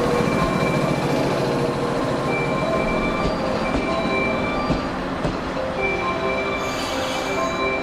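Electric train moving slowly along the station platform, with a steady rumble of wheels and motors and short, high wheel and brake squeals coming and going.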